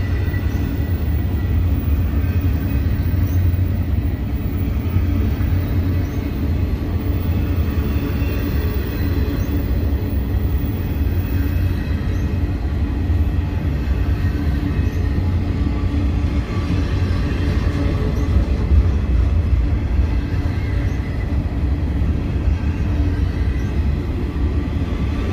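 Double-stack intermodal well cars rolling past at steady speed: a continuous deep rumble of steel wheels on rail, with faint steady high tones from the wheels.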